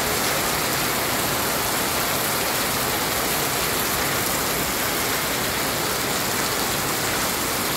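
Heavy rain falling on a flooded street, with floodwater running over the asphalt: a steady, even noise with no breaks.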